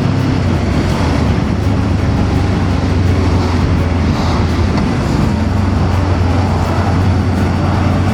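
Voge DS525X parallel-twin motorcycle engine running at a steady cruise, heard under wind rush and road noise.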